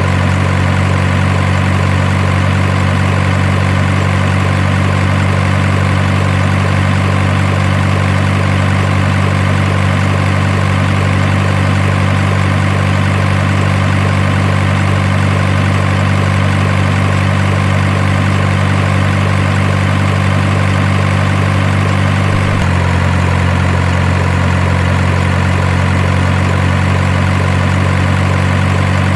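Steady truck-engine idle sound, even and unbroken, with a slight change in pitch about 22 seconds in.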